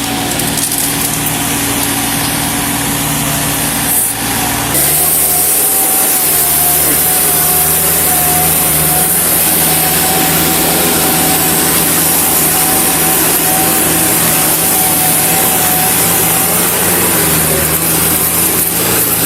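Mini excavator engine running steadily. About five seconds in, the sound changes abruptly and a steady, slightly wavering whine rides over the engine from then on.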